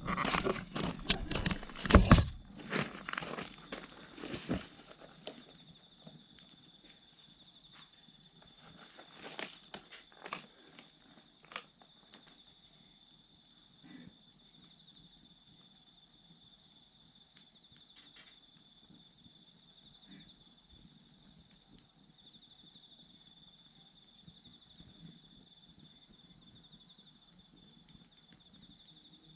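Insects chirping in a steady, high, unbroken trill over a crackling wood campfire. About two seconds in there is a loud cluster of knocks and cracks, followed by scattered single pops.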